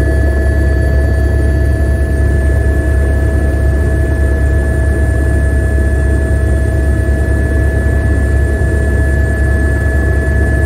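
Helicopter cabin noise in flight: a steady, loud low rumble of rotor and engine with a constant high whine over it.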